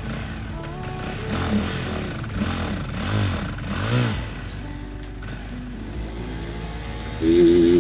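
Motorcycle engine revved in about four short throttle blips, each rising and falling in pitch, over background music. A loud held tone comes near the end.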